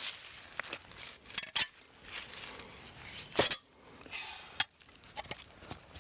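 Metal utensils and dishes clinking and knocking: a scatter of light taps and clinks, some briefly ringing, with a louder clatter about three and a half seconds in.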